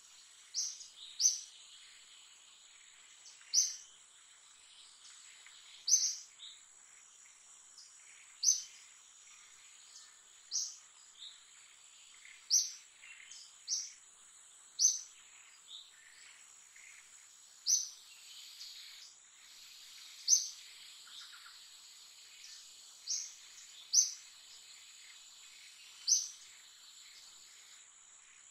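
A bird gives a short, sharp, high chirp, repeated about every two seconds, over a steady high-pitched insect drone.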